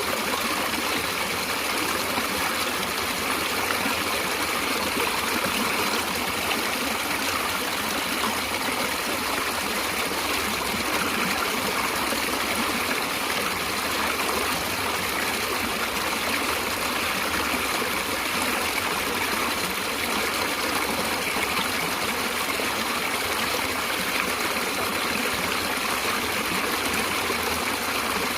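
Natural stream water flowing and trickling steadily.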